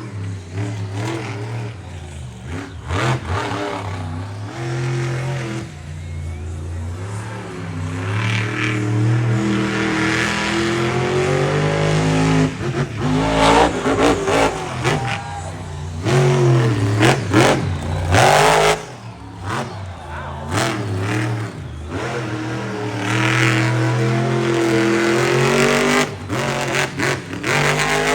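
A monster truck's supercharged V8 engine revving hard again and again, its pitch climbing and dropping with each blip of the throttle. Sharp, loud bursts break in twice, near the middle of the stretch.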